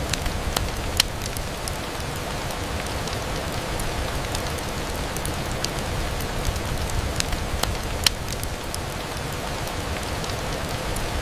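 Steady rain falling on a window, an even hiss with scattered sharp ticks of single drops; the sharpest come about a second in and about eight seconds in.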